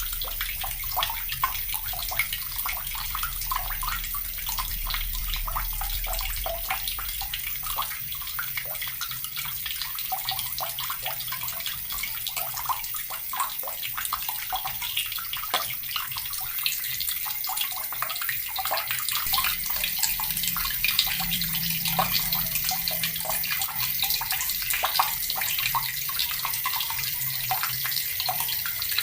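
Water running steadily from a tap and splashing into a basin or onto a hard surface below, a constant hiss with many small splashes.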